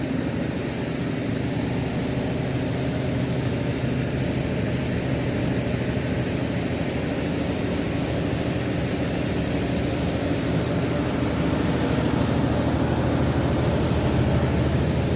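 Engine of a pusher boat shoving a river ferry barge, running steadily under load: a loud, even drone with a low hum that grows slightly louder near the end.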